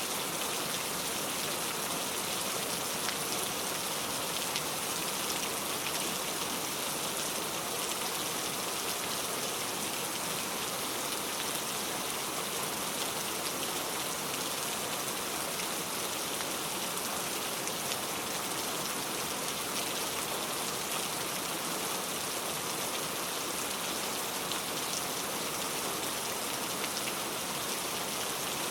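Heavy rain falling steadily, a dense even hiss with fine scattered patter of drops.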